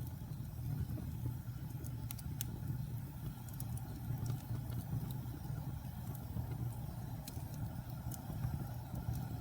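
Fire burning in a fireplace: a steady low roar with scattered sharp crackles and pops at irregular moments.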